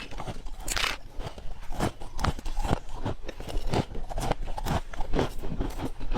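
Close-miked crunching of ice being bitten and chewed, a quick irregular run of sharp crunches several times a second.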